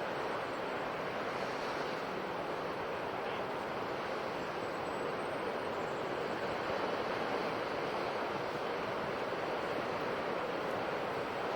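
Ocean surf washing on a shore: a steady, even rush of breaking waves with no distinct single breaker.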